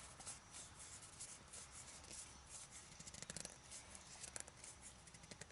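Faint, scattered clicks and light scraping of hands handling a small metal collet and a wooden workpiece, fitting the piece in to be tightened.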